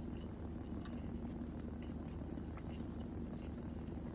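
A steady low hum with a faint held tone, under a few faint scattered clicks of eating.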